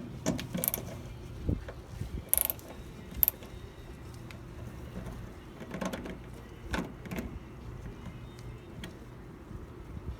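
Hand tools working the door striker of a 1974 Chevy C10 pickup as it is moved outward: scattered metallic clicks and knocks, like a ratchet wrench and tool contact on the striker bolt.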